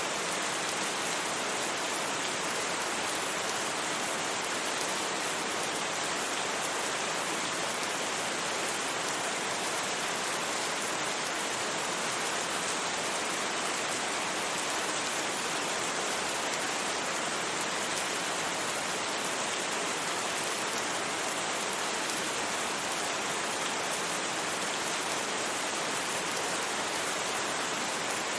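Steady rain: an even, unchanging hiss with no single drops or knocks standing out.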